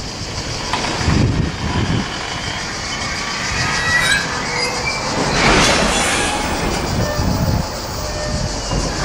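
Intermodal container freight train rolling slowly past, with a steady rumble of wagon wheels on the rails and short high squeals from the wheels on the curving track around the middle, followed by a louder rush of noise.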